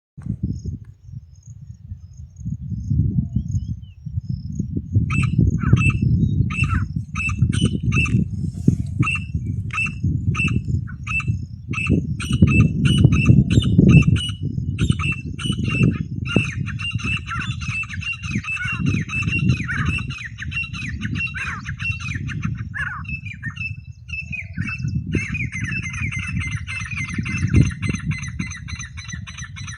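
Francolins (teetar) calling: sharp short notes repeated about twice a second from about five seconds in, thickening into dense overlapping chatter later on. A heavy low rumble runs underneath throughout.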